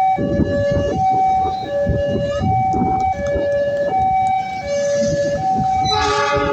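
Electronic two-tone warning alarm of a railway level crossing, switching between a high and a low tone about every three-quarters of a second, over a steady rumbling noise. A louder noisy burst comes in near the end.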